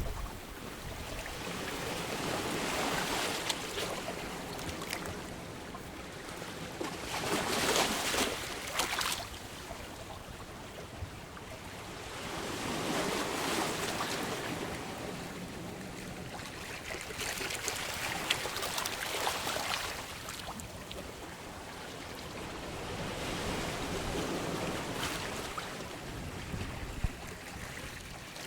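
Ocean waves surging in and drawing back, each wash of surf swelling and fading about every five seconds.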